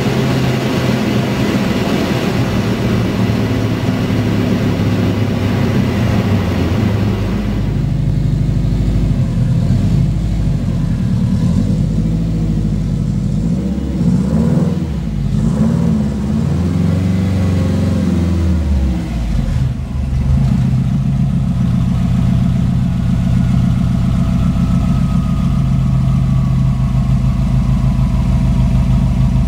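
Subaru EJ207 turbocharged flat-four in a VW Beetle running under way, heard from inside the cabin. About seven seconds in the sound changes to the engine in its open rear bay, revved up and down several times near the middle, then idling steadily.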